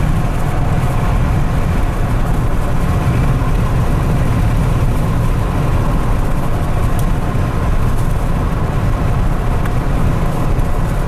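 Steady road and engine noise heard inside a moving car's cabin, strongest in the low end.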